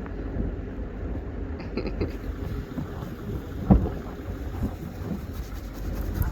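Strong wind buffeting the microphone in a snowstorm, a steady low rumble, with a few soft knocks and one louder thump about three and a half seconds in.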